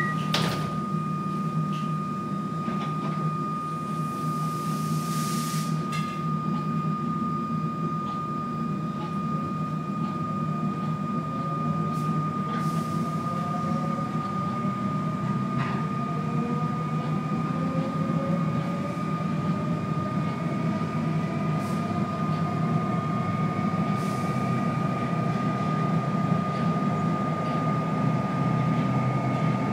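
Inside a Comeng electric suburban train carriage as it gathers speed: a steady rumble of the running gear under a constant high whine, with the traction motors' whine rising slowly in pitch as the train accelerates. A brief hiss comes about four seconds in, and occasional sharp clicks are heard.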